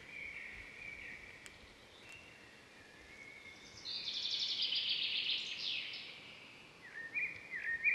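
Birds calling over faint outdoor background noise: a few thin chirps, then a louder rapid trill about four seconds in that lasts over a second, and a run of short repeated chirps near the end.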